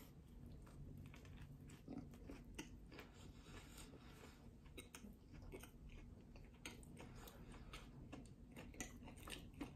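Faint chewing of a mouthful of breaded crispy chicken sandwich, with small crunches and crackles scattered through. One slightly louder crunch comes about two seconds in.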